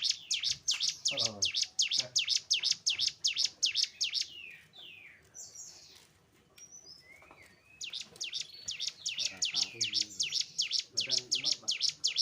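A cigun (ciblek gunung, a mountain prinia) singing: a fast, steady run of high chirps, about five a second, that breaks off about four seconds in for a few softer gliding notes and starts again about eight seconds in. Faint low voice-like sounds lie underneath at times.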